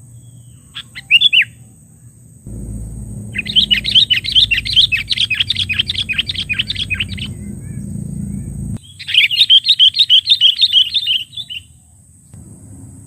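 Sooty-headed bulbul (kutilang) calling, agitated. A short call is followed by two long runs of sharp, rapid notes, about four a second. This is the excited 'menggaruda' call that challenges rivals, used as a lure.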